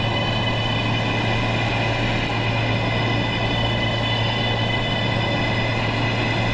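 R143 subway train running with a steady, unchanging sound: a constant low hum under several high, steady whining tones.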